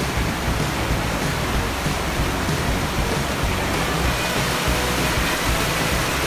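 Water rushing over a mill weir: a steady, loud roar of white water pouring down the spillway.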